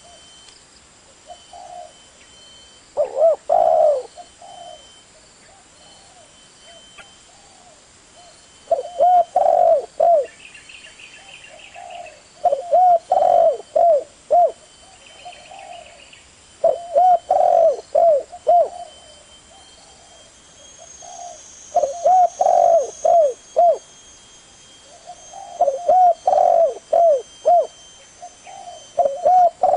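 Spotted dove (tekukur) cooing: a phrase of several quick coos, repeated about every four to five seconds. A smaller bird chirps faintly twice in between.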